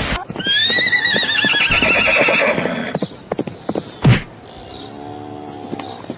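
An animal's long, wavering call for about two and a half seconds, followed by scattered clicks, one loud thump about four seconds in, and a shorter, lower call near the end.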